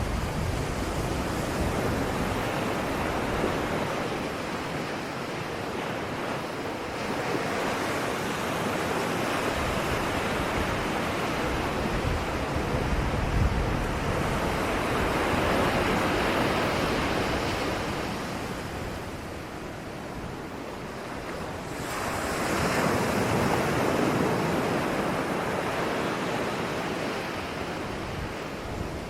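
Ocean waves breaking and washing on a shore, a continuous surf wash that swells and ebbs slowly, with two broad surges, one through the middle and one later, and a lull between them.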